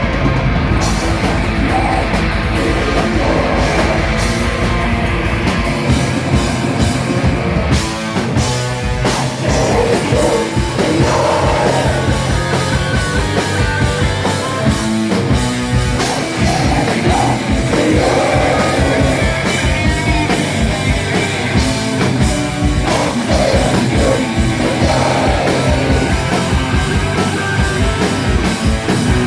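Rock band playing live and loud, with distorted guitars, bass and drums, and vocals coming in at intervals.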